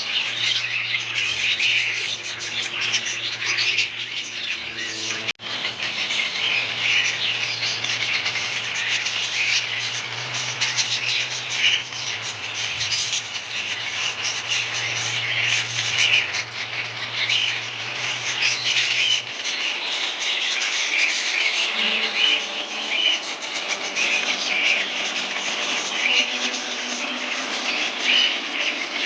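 Many budgies chirping and chattering continuously, a dense overlapping warble of short chirps. A steady low hum runs underneath until a little past the middle, then stops.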